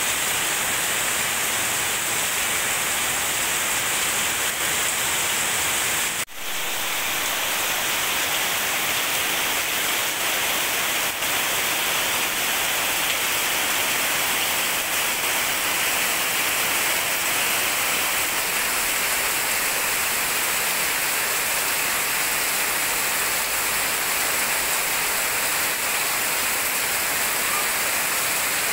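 Very heavy rain falling steadily on leaves and ground, a dense even hiss, with a momentary break about six seconds in.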